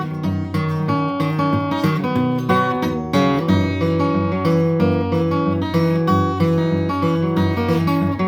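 Acoustic guitar playing an instrumental break between sung verses: a steady run of plucked notes over a moving bass line, with no singing.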